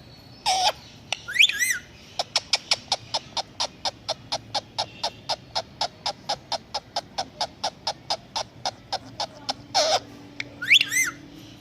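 Indian ringneck parrot calling: a few wavering, warbling calls near the start and end, and between them a long, fast, even run of short chirps, about five a second, lasting some seven seconds.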